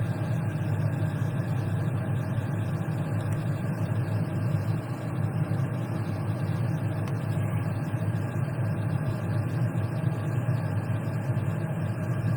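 Steady low rumbling hum with a faint hiss above it, unchanging throughout, with no distinct events.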